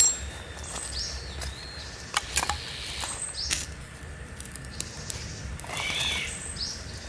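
Forest birds giving short, high, repeated calls every couple of seconds, with a few sharp taps in between.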